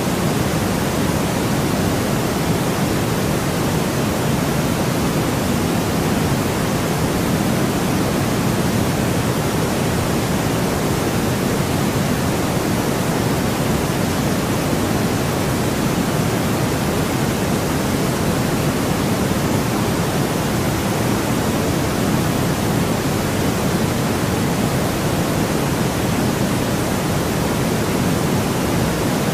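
Synthesized white noise playing as a steady, unchanging hiss, its energy weighted toward the low end.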